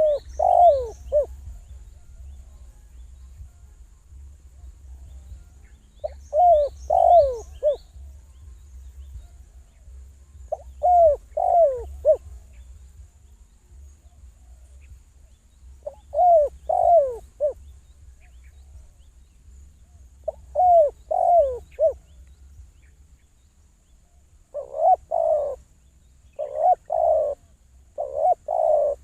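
Dove cooing: short phrases of three or four falling coos repeated about every five seconds. From about 24 s a quicker series of paired, rougher coos follows.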